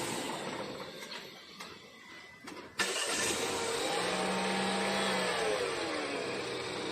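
Dongfeng Peugeot Citroën car engine running just after being started off a portable jump starter, easing down over the first couple of seconds. About three seconds in the engine sound comes back suddenly louder, and its pitch rises and then falls as it revs and settles.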